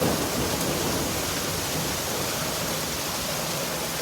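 Heavy rain pouring down in a thunderstorm, a steady even hiss.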